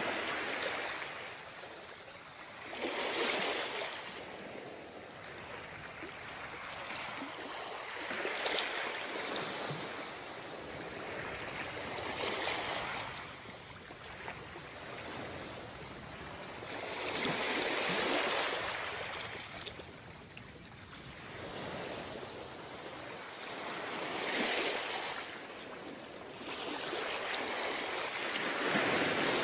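Ocean waves breaking and washing up on a beach, each wave swelling and fading every four to six seconds.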